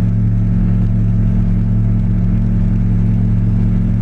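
Rotax 912 flat-four aircraft engine of a Slipstream Genesis ultralight, heard from the cockpit, running at a steady, unchanging pitch in the climb just after takeoff.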